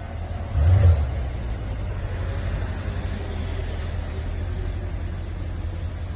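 Mercedes-Benz W222 S550's twin-turbo V8 idling through an aftermarket valved full exhaust with a sport resonator, a steady low rumble. About a second in it swells briefly louder, then settles back to idle.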